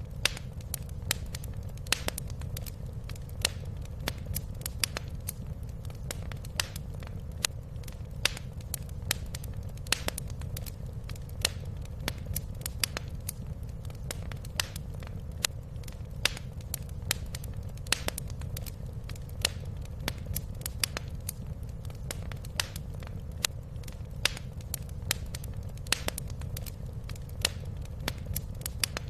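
Fireplace fire crackling: irregular sharp snaps and pops, several a second, over a steady low rumble.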